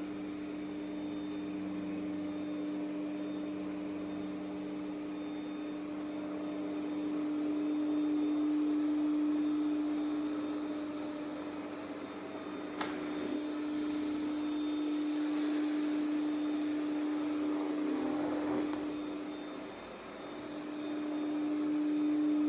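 ECOVACS DEEBOT T50 PRO robot vacuum's suction motor running with a steady hum. A single click comes about halfway through, and near the end the hum dips briefly in pitch and level before it steadies again.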